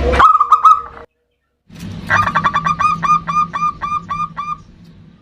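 Zebra dove (perkutut) calling: a short burst of quick cooing notes, then after a pause a run of about fifteen rapid hooked coos that fades out near the end, with a steady low hum beneath.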